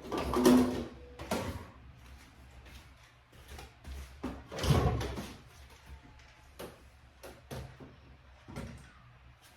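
Household clatter: a few knocks and bumps, the loudest about half a second in and about five seconds in, with lighter clicks between.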